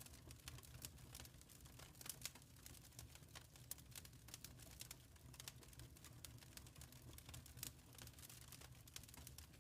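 Wood fire crackling softly: irregular sharp snaps and pops, several a second, over a low steady rumble.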